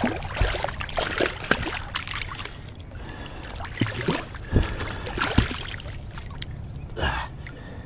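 Water splashing and sloshing against a boat's side as a striped bass is let go by hand and thrashes at the surface, in irregular splashes that thin out near the end, over a low steady rumble.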